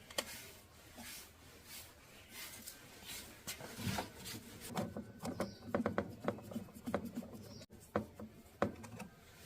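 Small irregular clicks, taps and rubs of parts being handled during work on a cassette player. They are sparse at first and come more thickly from about halfway through.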